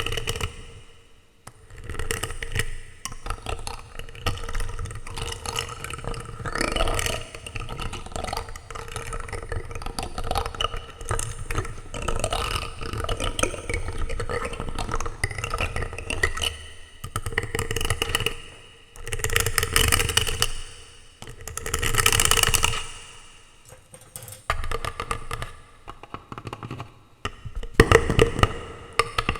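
Plastic utensils rubbed, scraped and tapped directly on a microphone, giving close, irregular scratching and clicking with a deep rumble of handling noise. Several louder rubbing swells come in the second half.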